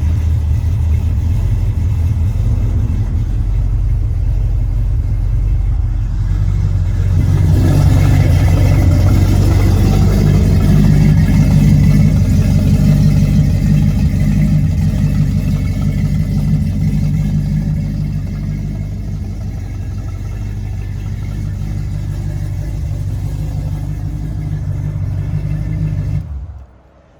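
1988 Chevrolet square body 1-ton truck's big-block V8 running just after start-up. From about seven seconds in it runs faster and louder for some ten seconds, then settles back to a steady idle, and the sound stops abruptly near the end.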